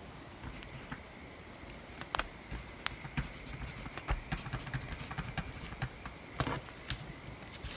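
Bonfire crackling in irregular sharp pops over a low hiss, with pencil writing and light taps on the desk.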